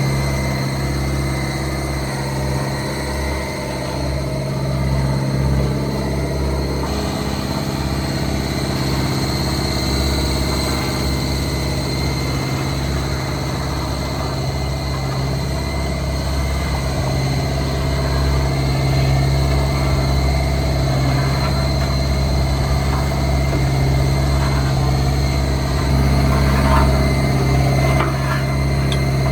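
Diesel engine of heavy construction machinery running steadily at low revs, with a few light clatters near the end.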